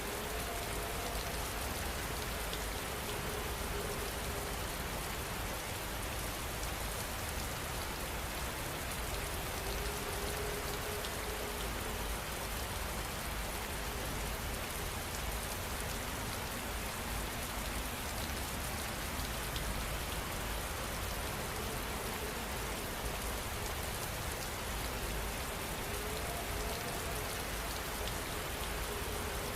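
Heavy rain falling steadily, a dense, even patter of drops on surfaces with no change in intensity.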